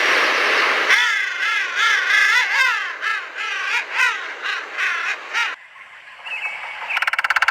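A bird calling: a rapid series of wavering cries that rise and fall in pitch, following a hiss at the start. The calls fade about two-thirds through, and a quick rattle of clicks comes near the end.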